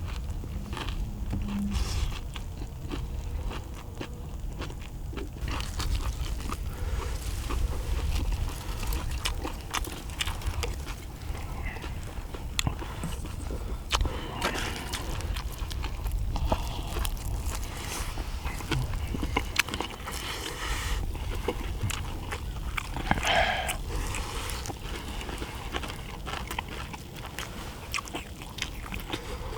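People chewing and eating fried rice, with scattered small clicks and crackles over a steady low rumble.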